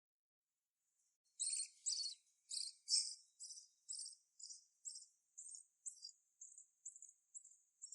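Lovebird chick cheeping in a regular series of short high-pitched cheeps, about two a second, starting about a second and a half in and growing fainter.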